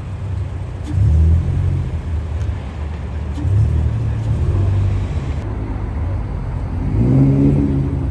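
Car engines running low, with a swell of revving about a second in, another around three and a half seconds, and a third near seven seconds.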